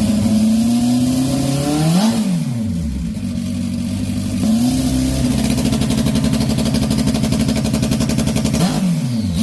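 Motorcycle engine revving hard: its pitch climbs, drops sharply about two seconds in, climbs again and holds high and steady for several seconds, then drops near the end.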